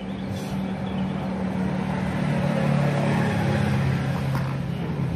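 A steady low mechanical hum over a faint hiss, its pitch dipping slightly about halfway through.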